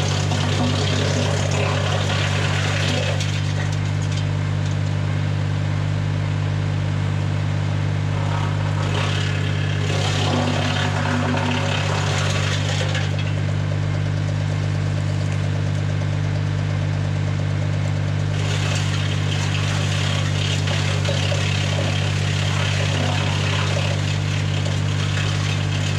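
PTO-driven BX-52 wood chipper, run off a tractor, turning with a steady low drone. Three stretches of louder rushing noise, near the start, in the middle and over the last third, as branches are fed through and chipped.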